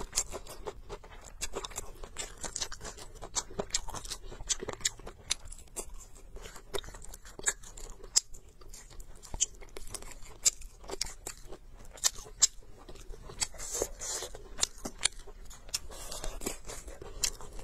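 A person chewing and crunching food close to the microphone, with many sharp, irregular clicks and mouth smacks.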